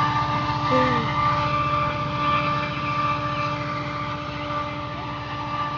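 GO Transit diesel commuter train passing: a steady engine drone with a constant hum and a fast pulsing low rumble, slowly fading as the train moves away.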